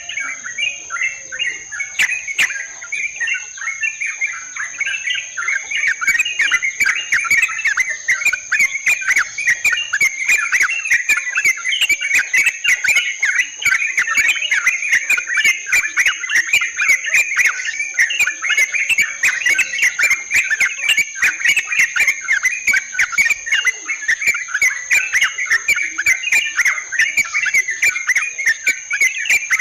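Yellow-vented bulbuls (trucukan) chattering in a continuous run of quick, bubbly calls, as played on a bird-lure recording, over a steady high insect drone. From about six seconds in, a rapid train of sharp clicks joins in.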